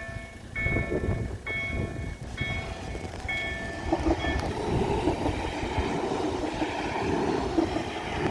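A train passing close by with a rumble that builds about half a second in and becomes a steady heavy rolling noise. Over the first half a pitched tone repeats about once a second and stops about four seconds in.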